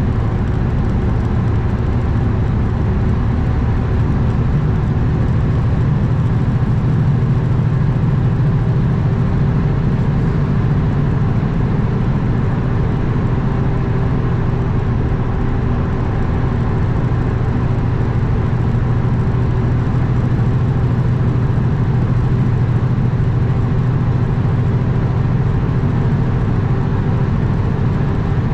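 2021 Kenworth W900 semi truck cruising on the road: a steady diesel engine drone with road and wind noise, unchanging throughout.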